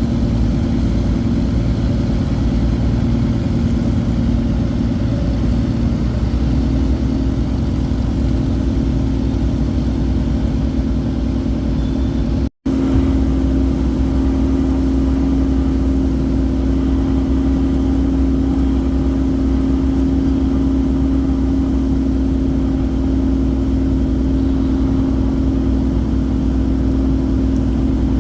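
Motorboat engine running steadily at a constant speed, its pitch stepping up slightly about six seconds in.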